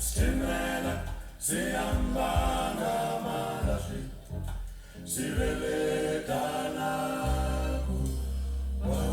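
Live music played back from a cassette on a Sanyo Plus D60 tape deck, recorded without Dolby: sung vocal lines with pitch bends over a sustained low bass note, with two short dips where the voices pause.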